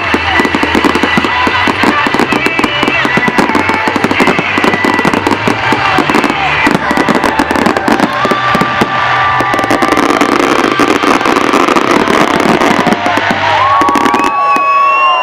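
Display fireworks going off in a dense, rapid barrage of cracks and pops, over music. Near the end the crackling stops suddenly and a crowd starts whooping and cheering.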